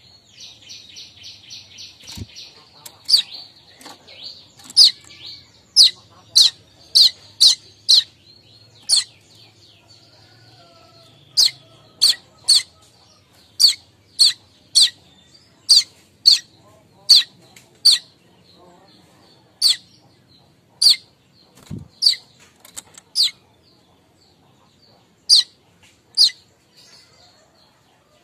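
Manyar kembang weaver calling: a brief buzzy chattering trill near the start, then a long run of short, sharp, high chip calls repeated irregularly about once a second.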